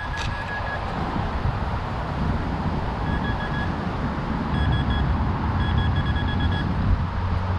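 Metal detector beeping over a target: several bursts of short, quick beeps at one steady high pitch. Wind rumbles on the microphone throughout.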